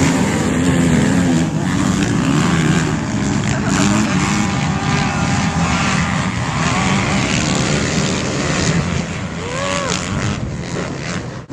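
Motocross bike engines running and revving, a loud continuous drone whose pitch keeps rising and falling.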